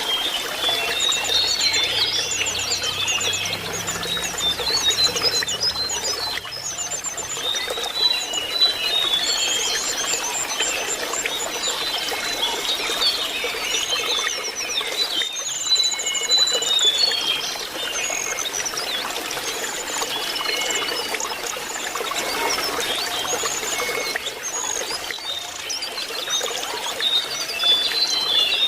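Lesser shortwing song, rapid high chirps and trills running on and on, over steadily trickling water.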